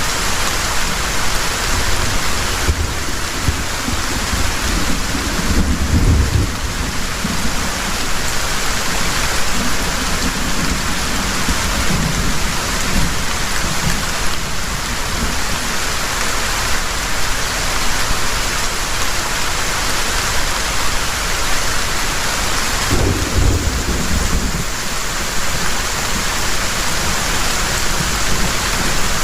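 Heavy rain pouring steadily, with low rumbles of thunder swelling about five seconds in and again near the end.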